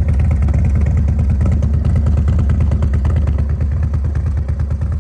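2004 Big Dog Sidewinder chopper's S&S 117 cubic-inch V-twin engine running steadily, a deep, even pulsing note.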